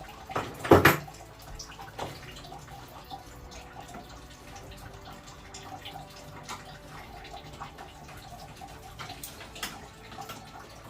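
Dirty water trickling and dripping out of a commercial air heater as it is drained down. A loud knock comes about a second in.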